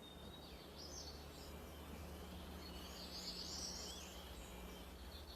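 Faint woodland ambience: a few high, distant bird chirps in two short clusters, over a steady low hum and hiss.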